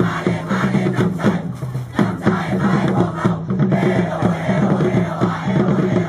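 A large group of students chanting and shouting a cheer together in rhythm, over music, with sharp hits between the phrases.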